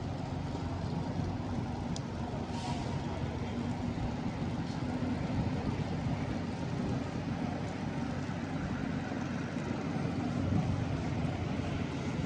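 City street traffic with a vehicle engine running steadily close by, giving a constant low hum.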